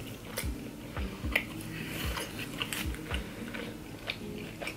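A person chewing a mouthful of pizza with the mouth closed, close to the microphone. There is a soft low thud with each chew, about twice a second, and small wet mouth clicks.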